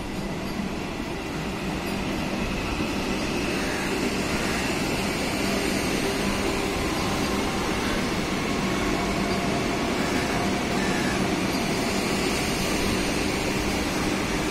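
Vande Bharat Express electric multiple unit passing close by: a steady rush of wheels on rail and running gear, with a faint low hum underneath. It grows slightly louder over the first couple of seconds, then holds steady as the coaches go by.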